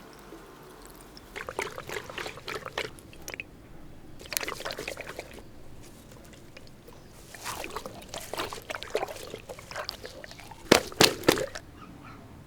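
Water sloshing and splashing in short irregular bouts, with a few sharp slaps near the end.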